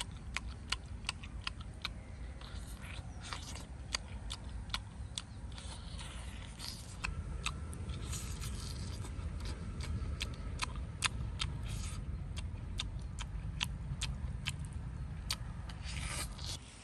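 Close-up eating sounds of a man biting and chewing a roasted pig leg: many sharp wet smacks and clicks, with short bursts of tearing or crunching, over a steady low rumble.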